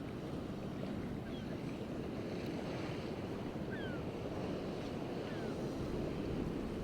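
Stormy North Sea surf breaking steadily in gale-force wind, with wind buffeting the microphone.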